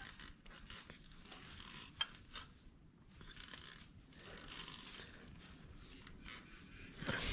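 Faint handling noises: light metallic clicks and rustling, with one sharper click about two seconds in.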